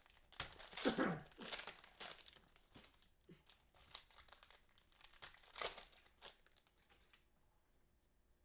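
Cellophane wrapper of a football card cello pack crinkling as it is torn open and crumpled by hand, in irregular crackles that die away about seven seconds in.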